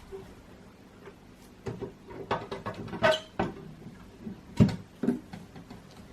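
Irregular knocks and clicks as the headlight glass is handled and fitted onto the silicone-lined headlight housing. The loudest knock comes about four and a half seconds in.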